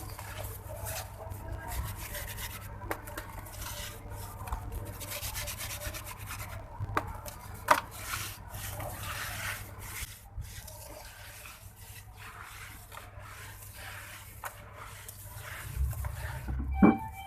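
Grainy red sand-cement being crumbled and rubbed by hand: a continuous gritty crunching and grinding with small crackles, a sharper crunch about eight seconds in and a louder thump near the end.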